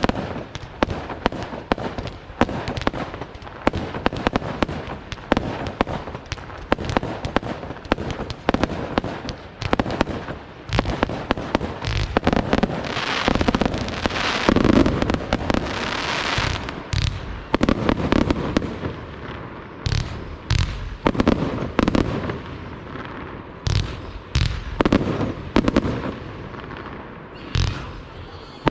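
Fireworks display: a rapid run of bangs and crackles. About halfway through it thickens into a continuous crackling hiss with low booms, then goes on as separate bursts with short gaps.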